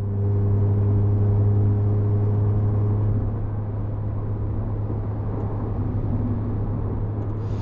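Golf 7 GTI's turbocharged 2.0-litre four-cylinder running through a Bull-X EGO-X aftermarket exhaust at a steady engine speed: a deep, even drone that eases slightly about three seconds in.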